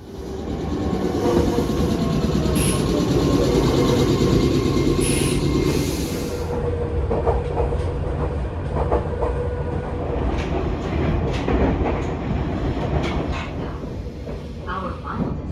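Train running on rails: a steady rumble with a high hiss that stops about six seconds in, followed by irregular clacks of the wheels over rail joints.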